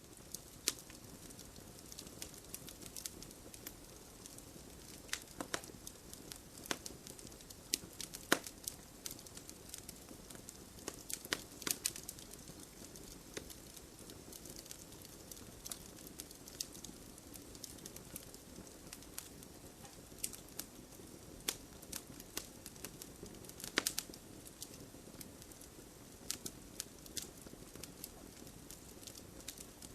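Wood fire crackling: a steady low hiss with irregular sharp pops and snaps, several a second, a few louder ones standing out.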